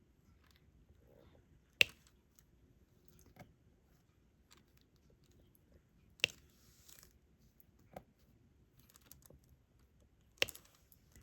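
Small plastic clicks and taps from diamond painting: a stylus pressing resin drills onto the canvas, with three sharp clicks roughly four seconds apart and fainter ticks between.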